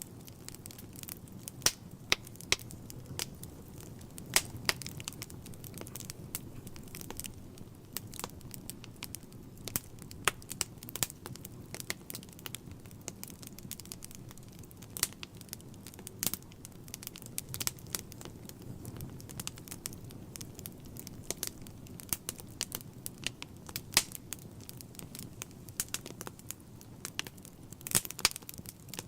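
Wood fire burning in a fireplace, with frequent sharp crackles and pops at irregular intervals over a soft low rumble of flames.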